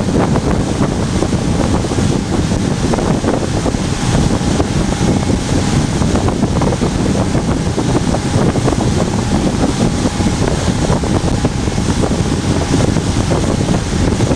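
Wind buffeting the microphone over the steady running of a motorboat under way, its engine and the water rushing along the hull blending into one loud, even rush.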